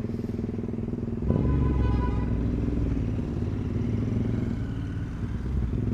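Motorcycle engine fitted with an 850cc big-bore kit and a full-system exhaust, running. Its note rises about a second in, then holds and eases off slowly.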